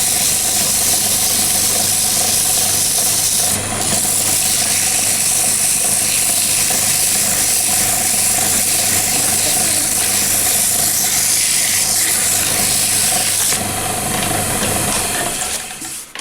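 Wood lathe motor running steadily with the hiss of worn, smooth abrasive rubbing on the spinning wooden knife handle, polishing it. The hiss drops away near the end and the lathe winds down.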